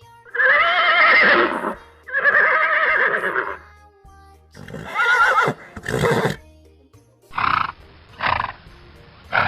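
Horse neighing: two long whinnies with a wavering pitch, then several shorter neighs and snorting bursts.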